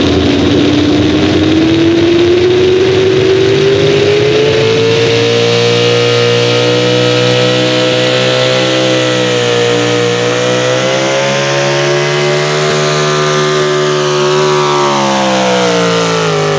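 Pulling vehicle's engine at full throttle during a hook, loud throughout. Its pitch climbs steadily over the first several seconds, holds high through the middle, then drops near the end as the run winds down.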